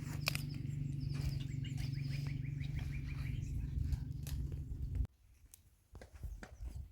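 Birds chirping, including a quick run of falling notes, over a steady low hum. The hum cuts off suddenly about five seconds in, leaving fainter bird notes and a few light knocks.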